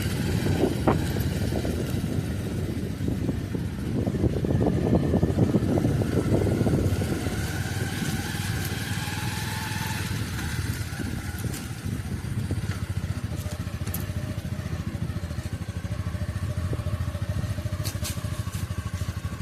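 A motor vehicle engine running steadily along with road noise, a little louder for a few seconds about a quarter of the way in.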